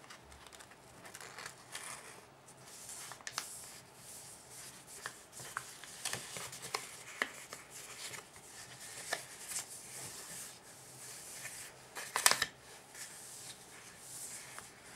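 A sheet of paper being folded and creased by hand, with soft rustles and short crackles. A louder crinkle comes about twelve seconds in.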